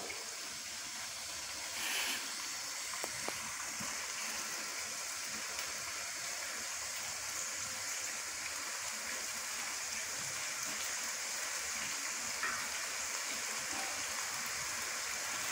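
Beef frying in hot oil in a pan, a steady sizzle with a few faint pops.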